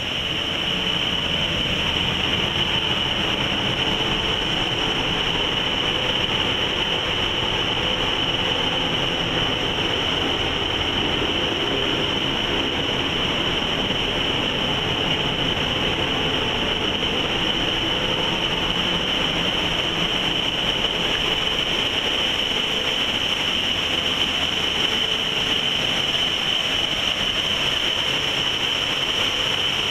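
A yacht's engine running steadily under way: a constant low rumble and rushing noise with a steady high whine over it.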